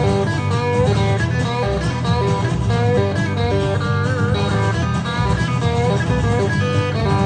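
Live band music led by guitars, an instrumental passage with no singing. It runs on steadily, with one bent or wavering guitar note a little past halfway.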